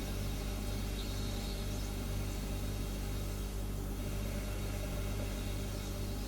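Refrigerator humming steadily: a low, even hum made of several held tones, with a faint hiss above it.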